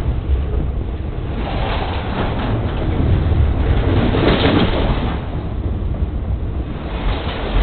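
A train passing directly over the rails just above: a loud, continuous rumble of wheels and undercarriage, swelling a little about three to five seconds in.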